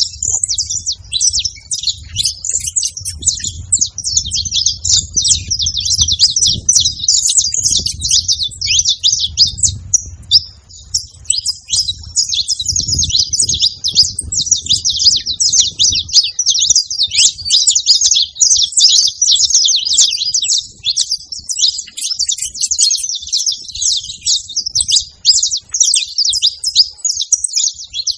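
Saffron finch singing a long run of rapid high chirps and trills with hardly a break. A low rumble sits underneath and stops about halfway through.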